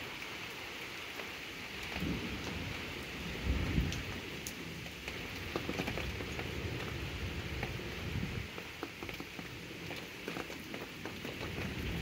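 Steady rain falling, with scattered drips tapping close by. Brief low rumbles swell about two seconds in and again near four seconds.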